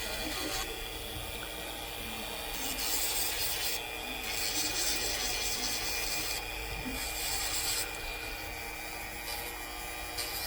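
Abrasive rasping in several spells of one to two seconds each, as a Quaker parrot's beak ridges are trimmed down.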